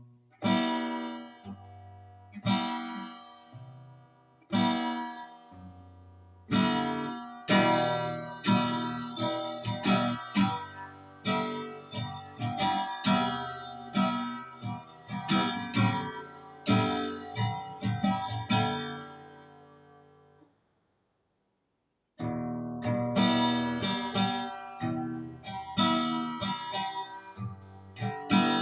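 Guitar strummed: single chords left ringing about every two seconds, then steadier, denser strumming. The playing stops about twenty seconds in and starts again a second and a half later.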